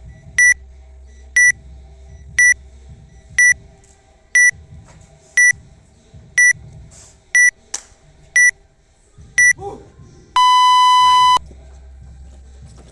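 Workout interval timer counting down to the start: nine short high beeps one second apart, then a long, lower tone about a second long that signals the start.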